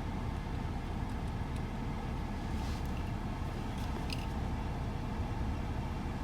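Steady low rumble heard from inside a car going through an automatic car wash, with a brief hiss about a third of the way in and a few faint ticks.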